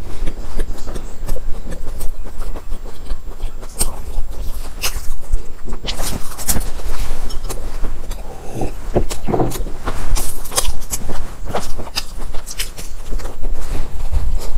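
Close-miked chewing and crunching of flaky pastry, with many short crackles, crumbs and mouth clicks. About eight seconds in there are a few swallows from a glass of water.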